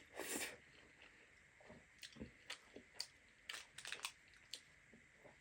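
A person eating: a bite in the first half second, then faint chewing with scattered short wet clicks and smacks.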